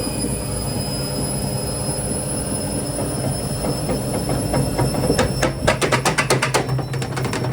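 Indesit Innex washing machine running loudly on its spin cycle, a steady mechanical hum. About five seconds in, a rapid knocking rattle of roughly seven strikes a second comes in for about two seconds.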